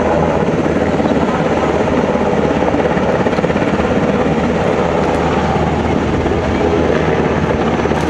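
Helicopter running loud and steady, its rotor and engine noise unbroken.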